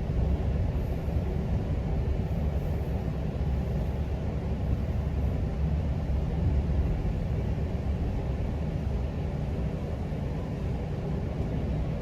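GO Transit commuter train rolling along between stations: a steady low rumble of wheels on the rails.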